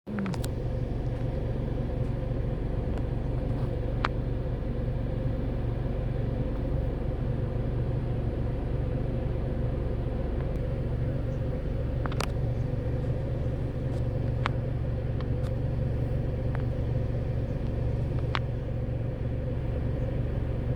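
Steady low rumble of an idling vehicle engine, with a few faint sharp clicks.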